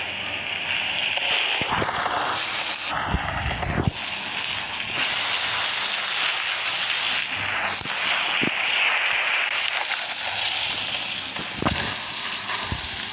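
Steady hiss of heavy rain, with a cluster of low thuds about three seconds in and a few single knocks later.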